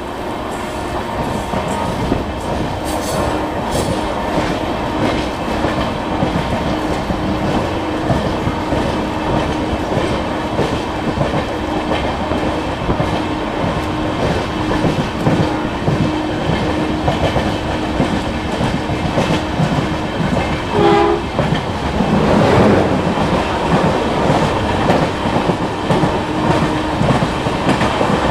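Train wheels clicking over rail joints in a steady running rhythm, with a short horn sounding about three-quarters of the way through.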